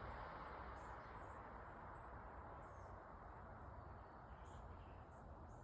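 Faint vehicle noise dying away into near silence, leaving a low steady background rumble and a few faint, short, high chirps.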